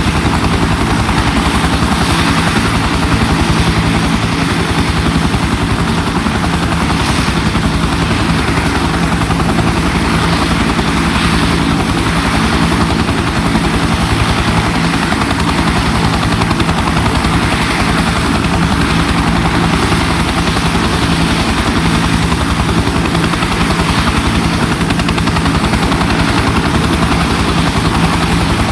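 A Bell UH-1 helicopter running steadily: its turbine engine gives a continuous drone under the fast, even chop of its two-blade main rotor.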